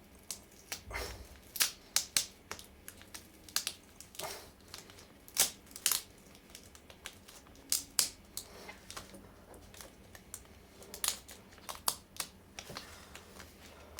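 Irregular clicks and crinkling from handling an HP ProBook 4530s laptop's screen panel as it is carefully worked loose from the lid, with a few louder snaps among them.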